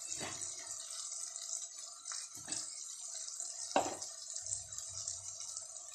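Shallots, garlic, tomato and spice powders frying in oil in a kadai: a steady sizzling hiss with a few sharp clicks.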